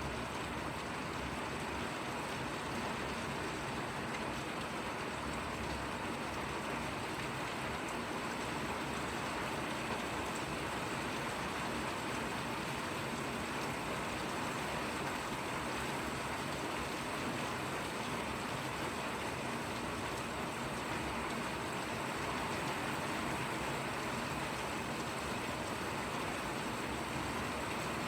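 Steady rainfall, an even hiss of rain falling without pause or change.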